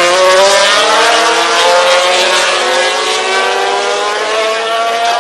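MotoGP racing motorcycle engine accelerating, its pitch climbing steadily.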